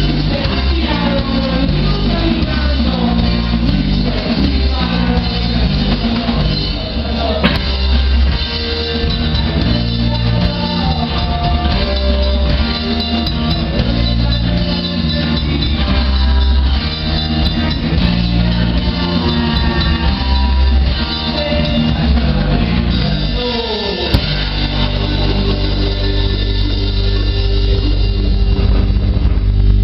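A rock band playing live, with drum kit, guitars and some singing. About three-quarters of the way through, a falling slide leads into heavier, held chords.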